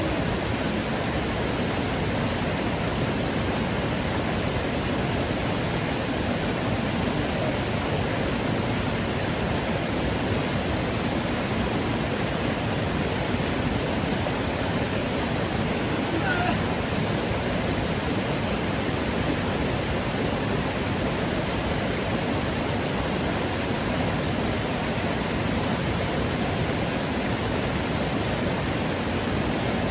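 Steady rushing of stream water flowing over rocks, an even unbroken noise.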